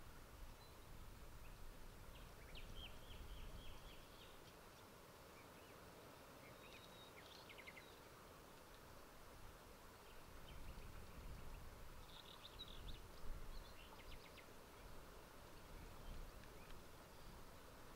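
Quiet outdoor ambience: a low steady rumble with a few faint, short bird chirps and trills, in small groups a few seconds in, around the middle and again toward the end.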